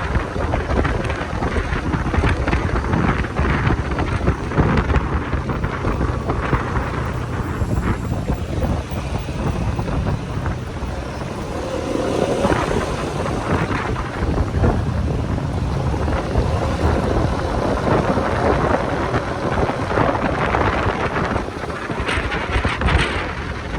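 Wind buffeting the microphone of a moving motorcycle, a heavy, uneven rumble over the bike's engine and road noise.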